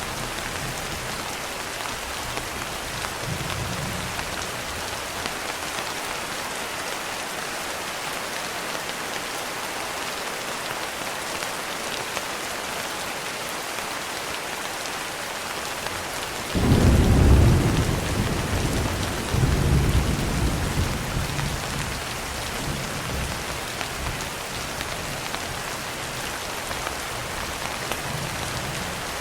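Steady rain, with a thunderclap a little past halfway: a sudden low rumble that swells twice and dies away over several seconds.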